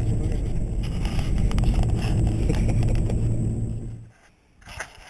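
Vehicle engine running steadily, stopping abruptly about four seconds in, followed by a few faint rustles and knocks.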